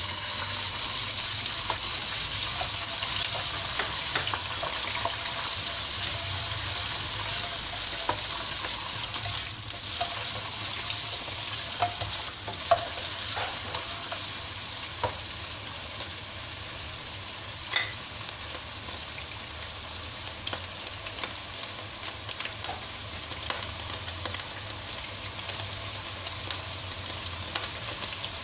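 Raw chicken pieces sizzling in hot oil in a nonstick wok: a steady frying hiss that eases a little over time. A spatula knocks against the pan a few times as the pieces are turned.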